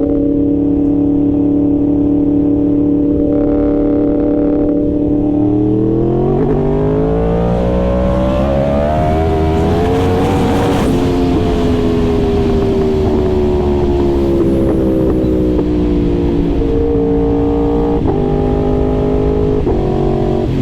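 Yamaha R1 sport bike's crossplane inline-four running at a steady cruise, then pulling up through the revs for about four seconds before its pitch slowly falls away as the throttle comes off. Near the end it settles at a steady pitch again, with a couple of short breaks in the sound.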